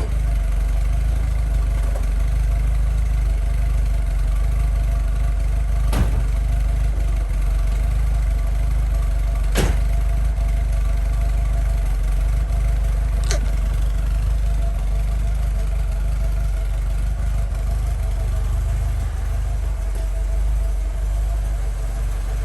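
1980 Fiat Spider's twin-cam four-cylinder engine idling steadily after a cold start, still warming up. Three sharp clicks stand out over the steady rumble, about six, ten and thirteen seconds in.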